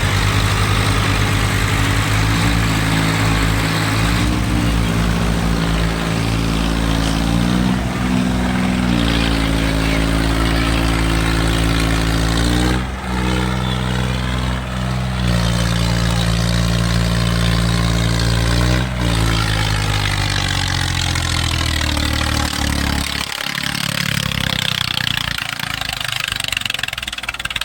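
Tractor diesel engine running hard, its revs shifting up and down, with two brief dips about halfway through and the revs dropping away near the end. It is pulling under heavy load in a tractor tug-of-war.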